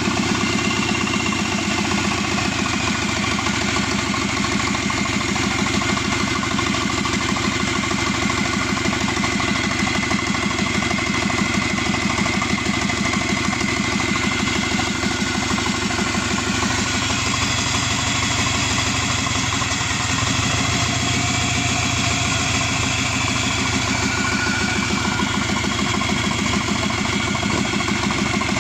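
Subaru EJ255 2.5-litre turbocharged flat-four engine, out of the car, idling steadily after running for about 18 minutes, with a steady high whine over the engine note.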